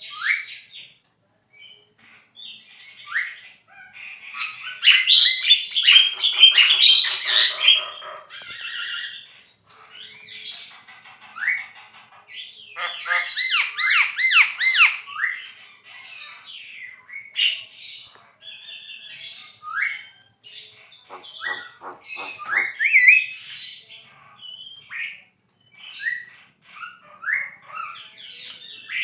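Javan myna calling at length: a varied string of harsh squawks and chatter mixed with short rising whistles. Louder scratchy bouts come about five seconds in and again around the middle, and a quick series of clicks near the end.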